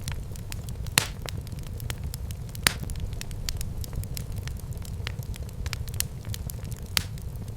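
Wood fire burning in a fireplace: a low steady rumble of flames with irregular sharp crackles and pops, the loudest about a second in, near the middle and near the end.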